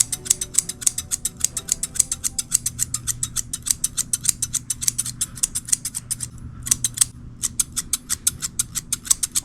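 Grooming shears snipping rapidly through a dog's coat, about five cuts a second, pausing briefly for about a second roughly two-thirds of the way through before carrying on.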